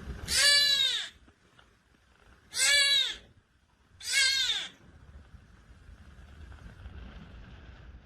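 A cat meowing loudly three times, each meow under a second long and falling in pitch at its end, the second about two seconds after the first and the third a second and a half later.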